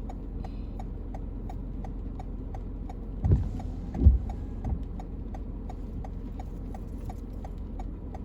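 Car's turn-signal indicator ticking evenly, about three ticks a second, over the steady low rumble of the car's cabin on the road. Two short low thumps come about three and four seconds in.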